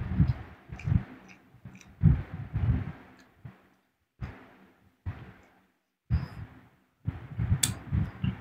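A person chewing a mouthful of roti and chicken curry close to the microphone: irregular bursts of low, thumpy mouth sounds with clicks, broken by short pauses.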